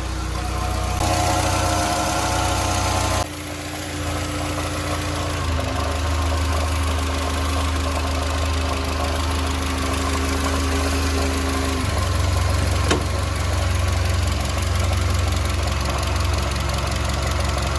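SsangYong Kyron 2.3 petrol engine idling with a characteristic knocking, hammering noise at the front of the engine. The knock comes from the accessory drive-belt tensioner, whose damper strut has play at its lower mount, though it sounds like it comes from the timing chain.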